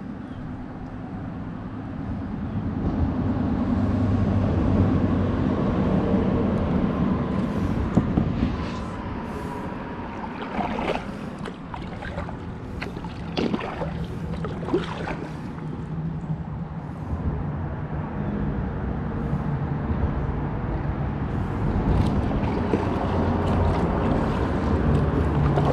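Low rumble of road traffic going by, swelling twice, with a cluster of short sharp clicks in the middle.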